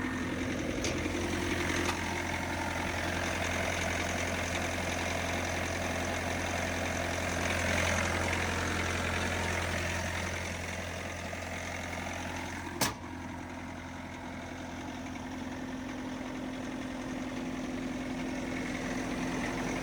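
Bobcat S530 skid steer's diesel engine idling steadily just after starting. About thirteen seconds in there is one sharp click, and the engine hum drops a little after it.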